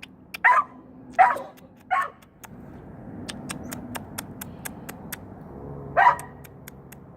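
A dog barking in agitation: three sharp barks in the first two seconds and another about six seconds in, with a run of faint clicks in the pause between.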